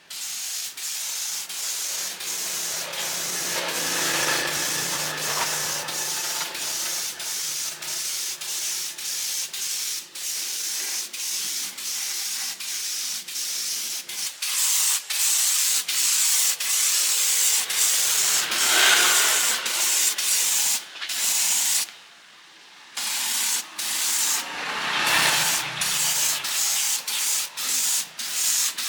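A steady hissing, rasping noise, broken by many short pauses and one longer stop about 22 seconds in.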